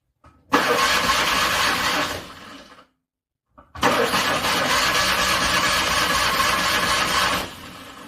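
Car engine cranking over on the starter in extreme cold, struggling to start. Two cranking attempts: a short one of about a second and a half, then a longer one of about four seconds. Each dies away into a quieter tail before stopping.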